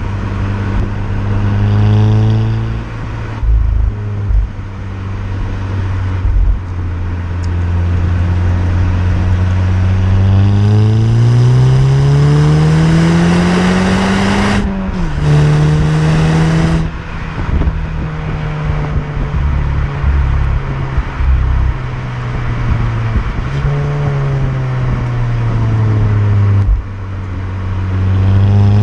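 Stock VW Golf 6 GTI's turbocharged 2.0 TSI four-cylinder engine and exhaust while driving. It holds steady at first, then revs up under acceleration for about four seconds and drops sharply at an upshift about halfway through. It settles again and picks up once more near the end.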